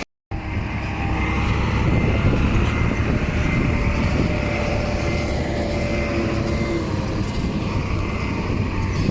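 Diesel engine of heavy earthmoving machinery running steadily with a deep rumble and a faint steady whine. A brief drop-out just at the start.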